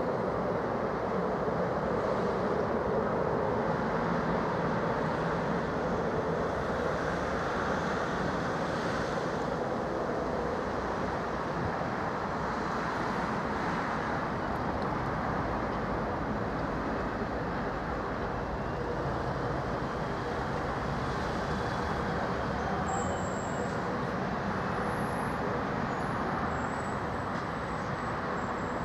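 British Rail Class 73 electro-diesel locomotive and test-train coaches moving slowly through the yard: a steady rumble of the locomotive and rolling stock, with no sharp knocks.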